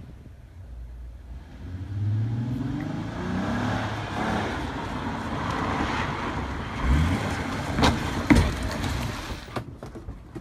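Car engine running as it drives up, its pitch rising and falling with the throttle. Near the end come two sharp knocks.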